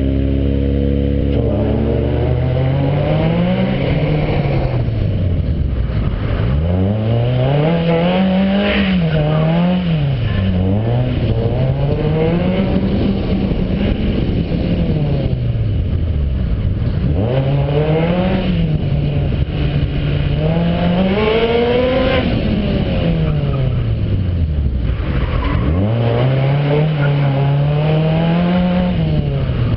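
Car engine heard from on board, steady for about two seconds, then revving up and dropping back again and again as the car is driven hard through an autocross course.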